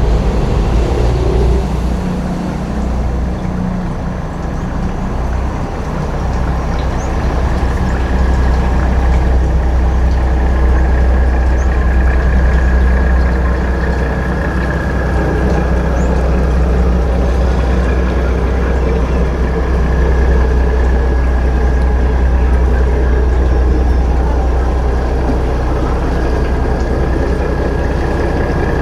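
A boat's engine running steadily, with a constant low drone and a thin steady whine above it.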